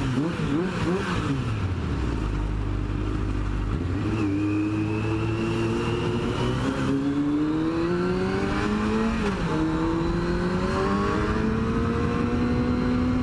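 Sport motorcycle engine pulling under acceleration, its pitch climbing steadily, dropping once about nine seconds in at an upshift, then climbing again.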